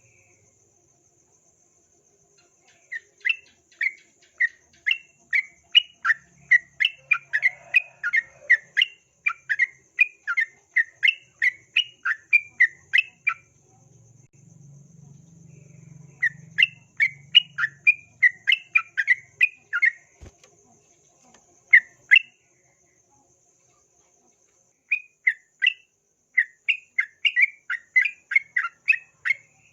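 Yellow-vented bulbul (trucukan) singing rapid runs of short chirped notes, about three a second, in several long bursts separated by brief pauses.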